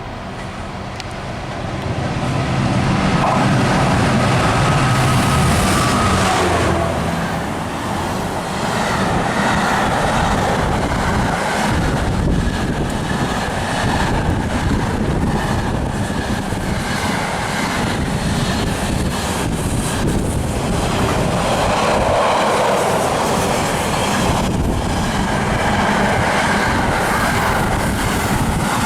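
A train passing close by: the sound swells over the first two seconds into a low steady drone, then carries on as a loud rumble with the rapid clatter of wheels on the rails.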